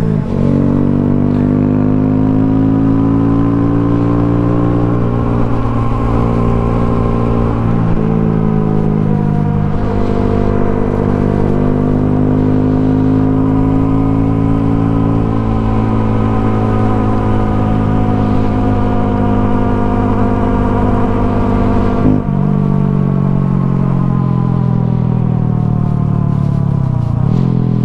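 Honda Grom's small single-cylinder engine running steadily while riding, its pitch drifting slowly up and down with the throttle and shifting about ten seconds in.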